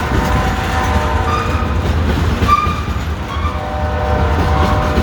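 Freight train cars rolling past on the rails: a steady, heavy low rumble of wheels on track, with several steady higher tones over it that drop out briefly midway.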